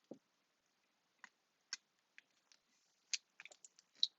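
Faint, scattered clicks and taps of craft materials being handled, with a soft thump at the very start and a quick cluster of clicks from about three seconds in.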